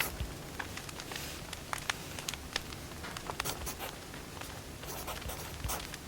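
Wood fire burning, with irregular sharp crackles and pops from the burning logs over a faint steady hiss.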